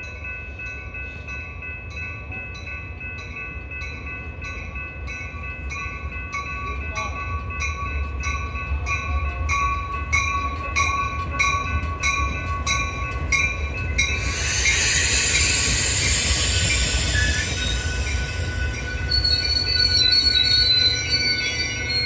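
Railroad crossing bell ringing about twice a second over the low rumble of an approaching Metra commuter train. About two-thirds of the way in, the train passes close with a loud rush of wheel and car noise, with some high wheel squeal near the end.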